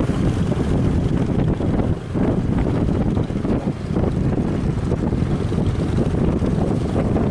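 Strong wind buffeting the microphone, a loud rumbling rush with brief dips about two seconds in and again near the four-second mark.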